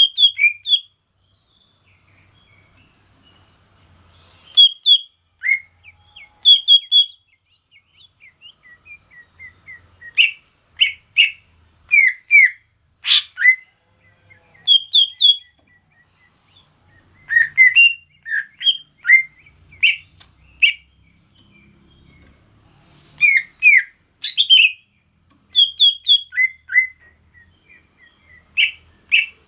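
Cucak ijo (green leafbird) singing: short, loud whistled and chirped notes in quick clusters of two to four, with pauses between bursts, over a steady high hiss.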